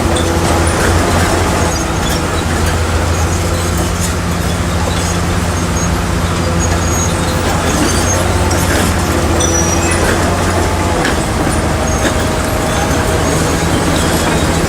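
Heavy diesel engine of construction machinery running steadily, a low hum that holds level throughout.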